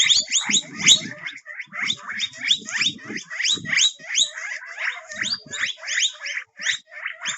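Guinea pig squeaking: a quick, continuous run of short rising squeaks, about four a second.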